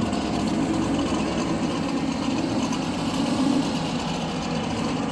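A car engine running steadily at idle, with no revving.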